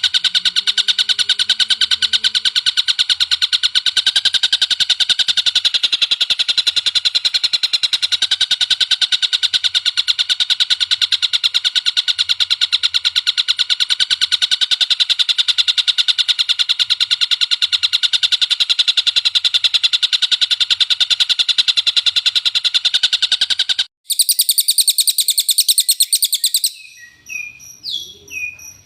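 Songbird recording used for masteran: a loud, continuous rapid-fire trill of quickly repeated high chirps. About 24 seconds in it cuts off abruptly and switches to a different, higher call, then to a few separate, quieter chirps that slide in pitch.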